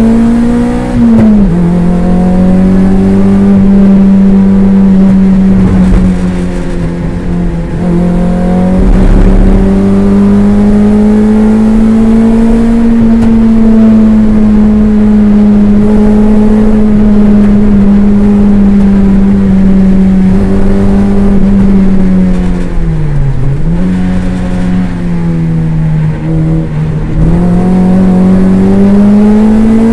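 Toyota MR2 race car's engine heard from inside the cabin, held at high revs with the pitch slowly rising and falling. Sharp drops in pitch, which are braking and downshifts, come about a second in, twice between about 23 and 27 seconds, and again at the very end.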